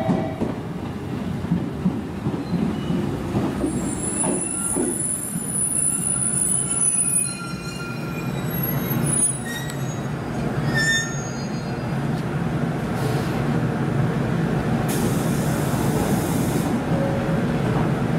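JR Kyushu 811 series electric train pulling in and braking to a stop, high thin brake squeals over a low rumble that die away about ten seconds in. A short hiss of air follows about fifteen seconds in as it stands at the platform.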